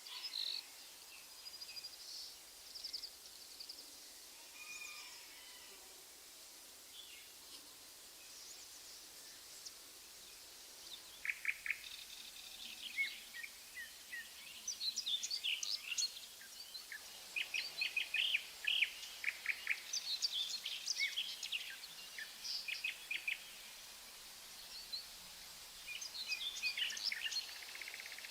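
Several songbirds chirping and singing over a faint steady outdoor hiss, with short high notes that come sparsely at first and then thickly for the second half.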